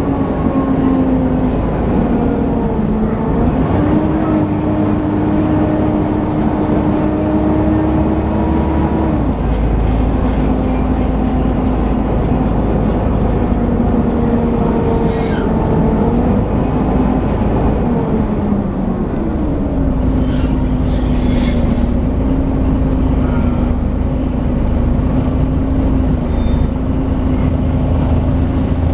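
Volvo B7TL double-decker bus running under way, its engine and drivetrain giving the loud whine known as 'hoovering' over a low rumble. The whine's pitch shifts up and down several times as the bus changes speed and gear.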